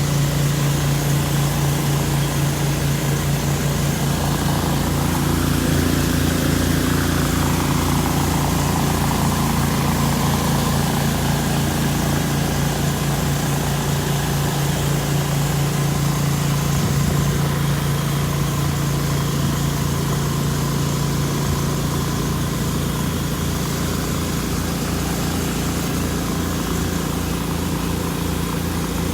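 Gas engine of a pressure washer running steadily at constant speed, with a steady hiss over it.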